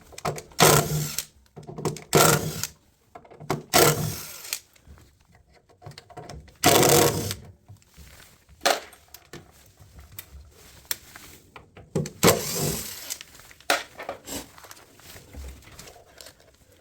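Cordless power drill/driver running in about five short bursts of roughly a second each, with pauses between them.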